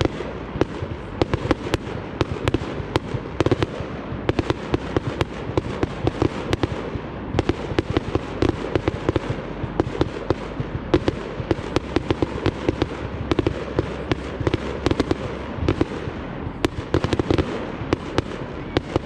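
Fireworks display going off in a dense, continuous barrage: rapid sharp bangs and crackles, many a second, over a steady low rumble.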